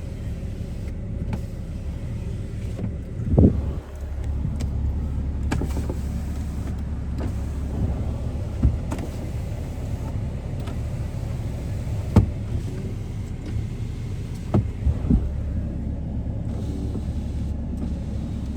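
Power sliding rear window of a Ram 2500 cab being run, its motor making a steady low hum. A few sharp clicks sound as it starts and stops, the loudest about three seconds in.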